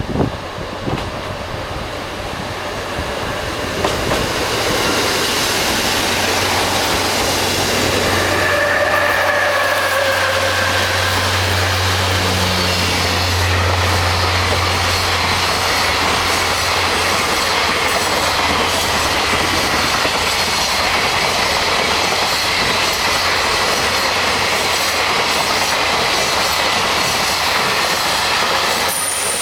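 KiYa 95 'Doctor Tokai' diesel inspection train running through a station: a low diesel engine drone and the steady noise of its wheels on the rails, with a brief high squeal about nine seconds in.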